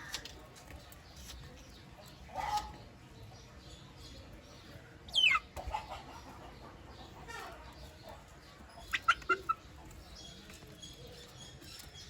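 Young aseel chickens calling: a single call about two and a half seconds in, a loud falling peep about five seconds in, and a quick run of four short chirps about nine seconds in.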